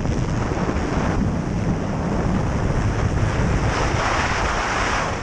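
Strong wind rushing over the microphone, with rough sea beneath it: a steady, loud noise with no clear rhythm.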